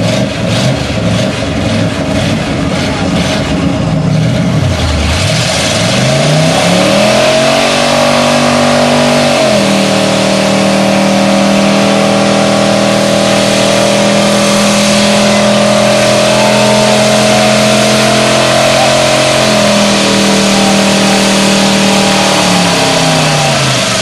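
Car engine in a burnout: revved up and down in bursts, then climbing about six seconds in and held at high revs for roughly ten seconds before dropping back near the end, over a dense hiss of spinning tires.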